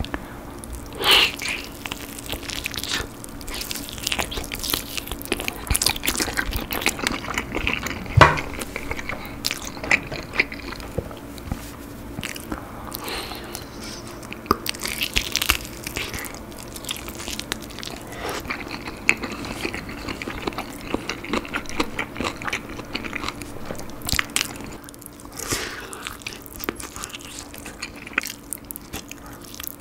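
Close-miked eating sounds of a basil-sauced grilled chicken leg being bitten into and chewed, with wet mouth sounds and many small sharp clicks as the meat is gnawed off the bone. One louder click comes about 8 seconds in.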